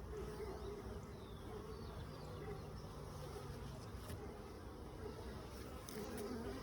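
Honeybees buzzing around an open hive, a steady wavering hum that rises and falls as individual bees fly close to the microphone.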